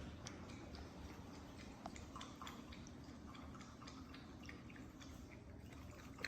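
Faint, irregular clicks and taps from a dog snapping and scrabbling at its own leash, over a steady low hum.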